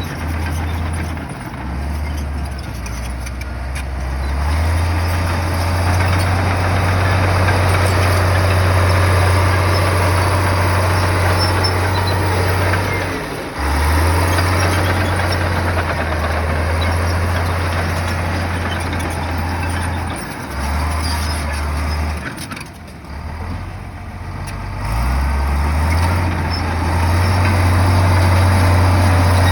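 Komatsu bulldozer's diesel engine working hard, a loud low drone that drops and comes back up several times as the load changes. There is a brief lull about three-quarters of the way through.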